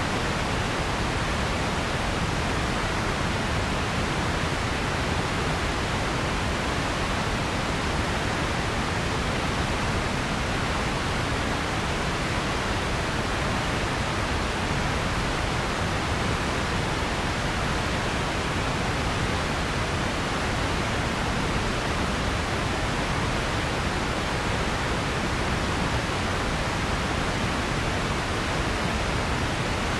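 Steady generated noise: an even, unbroken hiss with no changes in level or pitch.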